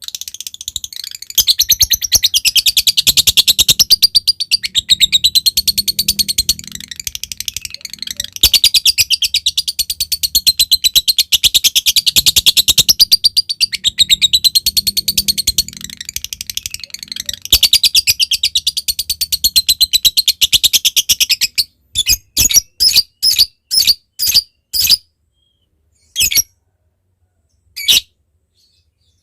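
Lovebird's long, rapid chattering trill (ngekek) in three long runs, the last ending about three-quarters of the way in, followed by a string of short separate chirps.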